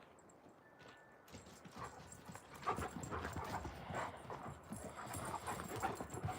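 Alaskan Malamute digging in dirt: rapid scratching and scraping of paws in soil, starting about a second in and getting louder about halfway through.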